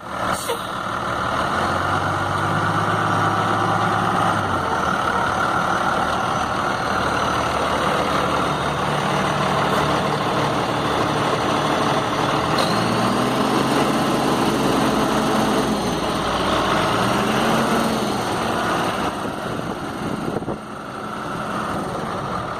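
Cummins ISB 5.9-litre diesel of a 2002 Ottawa Commando 50 yard truck running, mostly at idle, with the engine speed rising and falling twice in the second half.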